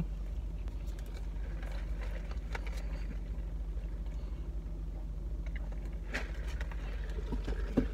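Car engine idling, a steady low hum heard from inside the cabin, with a few faint small clicks and a sharp click near the end.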